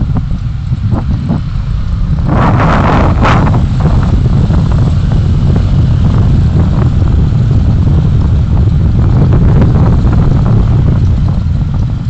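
Wind buffeting the dashcam microphone on a moving vehicle: a loud, steady low rumble mixed with road and traffic noise, with a brief surge of brighter rushing noise about two to three seconds in.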